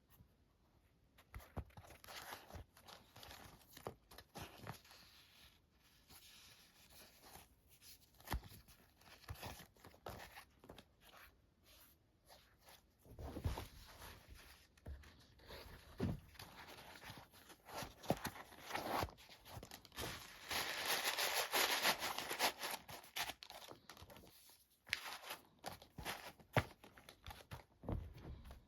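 Hands handling a new pair of shoes and their packaging: irregular crinkling and rustling of paper or plastic wrapping, with a few soft knocks, and a longer, louder stretch of crinkling a little past the middle.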